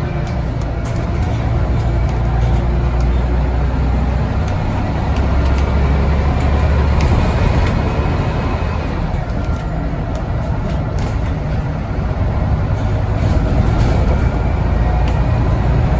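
Scania N94UD double-decker bus engine running steadily under load, with a deep low hum that swells twice, and scattered sharp clicks over the top.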